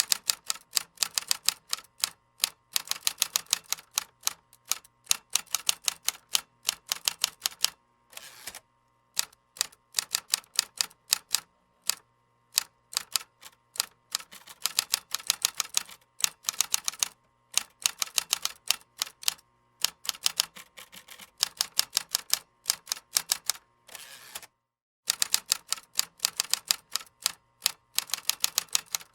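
Computer keyboard typing: quick runs of key clicks in bursts, broken by brief pauses.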